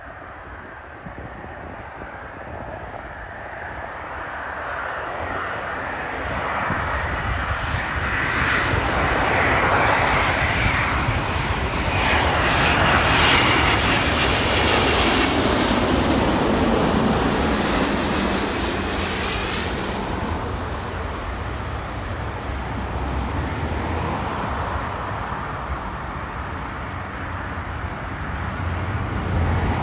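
Airbus A350-900 jet engines (Rolls-Royce Trent XWB turbofans) on landing approach. The noise builds over about ten seconds and is loudest as the plane passes, with a pitch that falls. It then eases into a low rumble.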